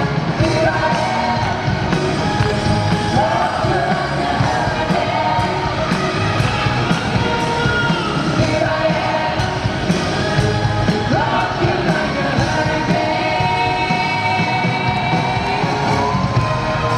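Live hard-rock band playing with an orchestra, loud and dense, as a male lead singer holds long notes that slide up into each phrase over a steady drum beat.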